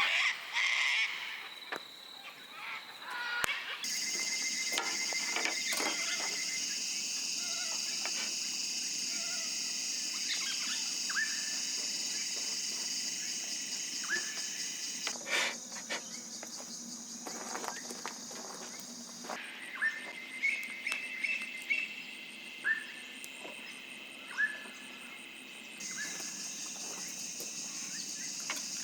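Insects droning steadily at a high pitch, with short bird chirps scattered throughout. The insect sound shifts abruptly a few times, and a few sharp clicks come about halfway through.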